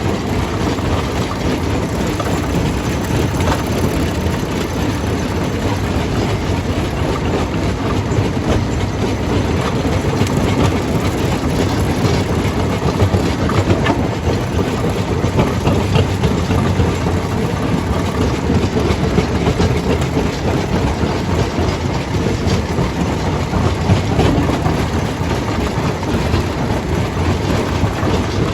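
Stone jaw crusher running and crushing rock: a steady heavy rumble under a constant clatter of breaking stone, with sharp cracks scattered through it.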